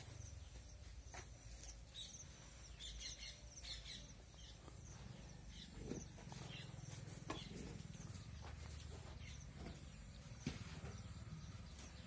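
Faint chirping of small birds, mostly in the first few seconds, over a low steady hum, with a few soft knocks later on.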